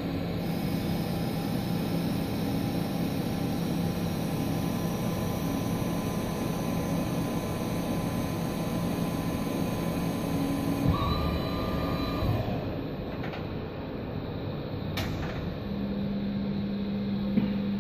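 A CNC lathe with X, Z and C axes running its machining cycle after cycle start, a steady machine sound with held motor tones. About eleven seconds in the tones change. There is a sharp click around fifteen seconds, then a new steady hum.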